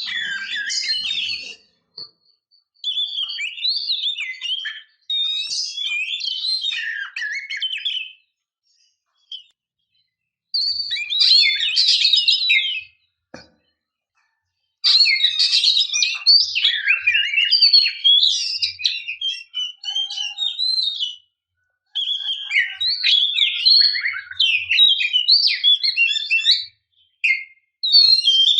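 Oriental magpie-robin (kacer) singing: rapid, varied high whistled phrases lasting a few seconds each, separated by short silences. The song is billed as a female in breeding condition calling to a male.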